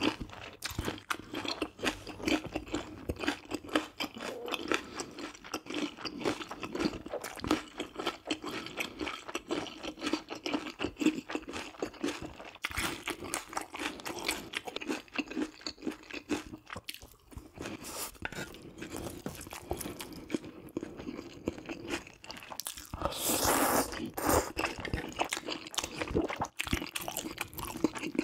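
Close-miked chewing and mouth sounds of a person eating spicy stir-fried baby octopus, pork belly, rice and udon noodles: a quick, continuous run of wet smacks and crunches, with one louder, noisier stretch of about a second near the end.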